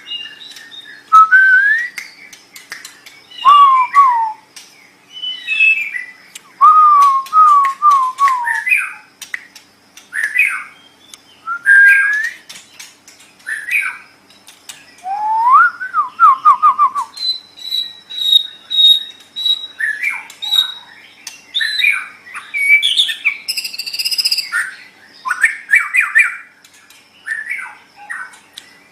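White-rumped shama singing: a long run of varied, loud whistled phrases, with rising and falling slurs and quick series of descending notes, broken by short pauses.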